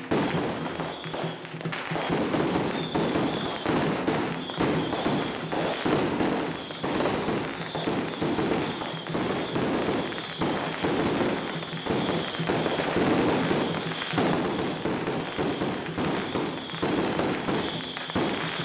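Strings of firecrackers crackling densely and without a break, with procession music underneath.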